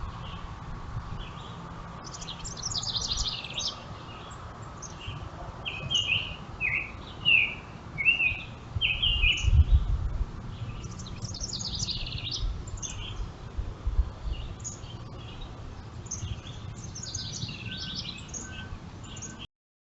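Wild birds chirping and singing, with bursts of quick chirps and short downward-sweeping notes, over a low steady rumble. The sound cuts off abruptly near the end.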